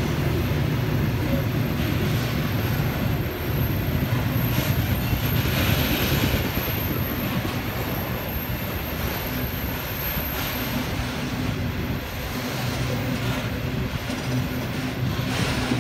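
Long freight train's wagons rolling past on a curve: a steady rumble of wheels on rail, with the rolling noise swelling slightly about five to seven seconds in.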